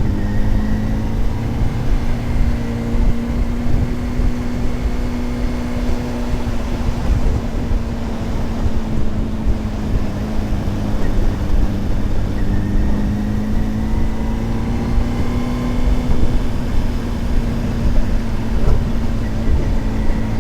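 Honda CBR600RR's inline-four engine and exhaust running at a steady cruise, its pitch sagging slightly through the middle and rising again near the end, with heavy wind rush on the microphone.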